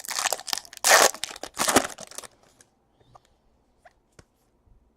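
Foil trading-card pack wrapper being torn open and crinkled in a rush of crackling for about two seconds, then a few faint clicks as the cards are handled.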